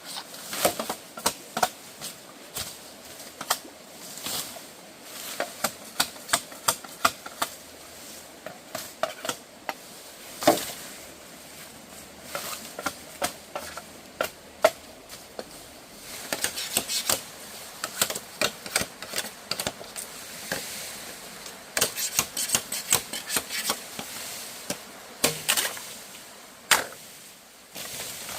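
Irregular runs of sharp taps and knocks from hand tools working on wood, with a few single louder knocks, one near the middle and one near the end.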